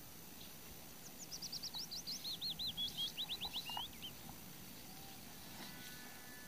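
A songbird singing one phrase of about three seconds: a quick run of looping whistled notes that falls in pitch, over a steady low background hiss.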